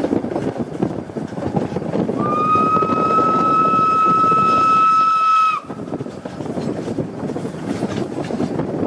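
Steam locomotive whistle, a single steady blast of about three and a half seconds that cuts off sharply, over rushing wind noise on the microphone.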